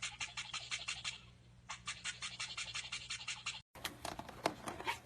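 Toothbrush scrubbing back and forth in quick, even strokes, about seven a second, with a short pause about a second in. Near the end it gives way to a few irregular clicks and scratches.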